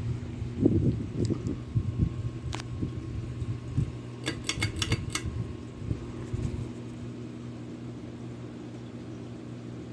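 Cornucopia 52-inch ceiling fan running with a steady motor hum. Irregular low thumps and rumbles come and go over the first two-thirds, with a quick run of sharp clicks about halfway through, then the hum carries on alone.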